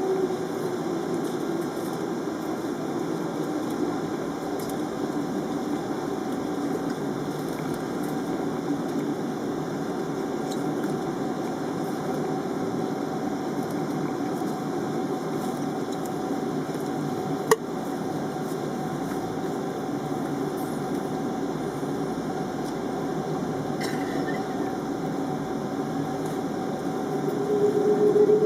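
Jet airliner engines running, with a steady hum and whine; near the end the pitch climbs and the sound grows louder as the engines spool up. A single sharp click about two-thirds of the way through.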